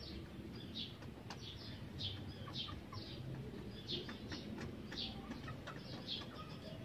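Small birds chirping repeatedly: short, high calls, roughly two a second, over a low background rumble.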